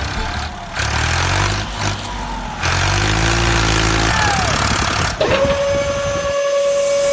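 An engine running with a low, rumbling hum. About five seconds in, a steady high whistling tone takes over, with a hiss joining it near the end.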